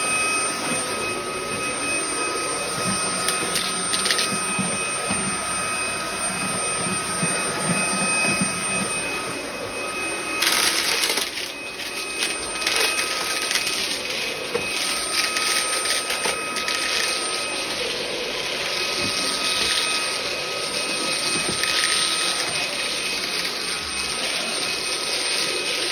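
BISSELL ICONpet cordless stick vacuum running, a steady high motor whine over a rushing suction noise. About ten seconds in the rush turns brighter and louder for a couple of seconds while the whine drops out, then settles back.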